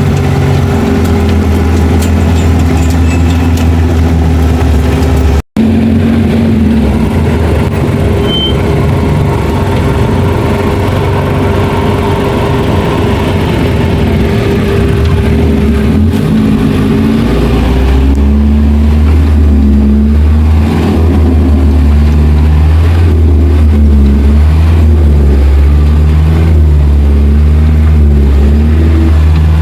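Engine of an off-road 4x4 running steadily, with a break about five seconds in. From about two-thirds of the way through it gets louder and its pitch wavers as the engine works harder.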